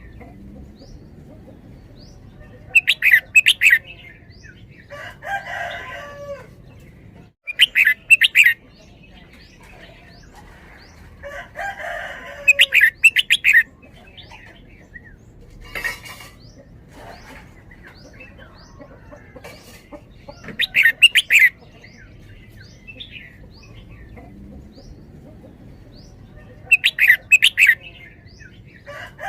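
Red-whiskered bulbul singing short bursts of quick, bright notes, about five phrases spaced several seconds apart. Softer, lower calls sound between the phrases.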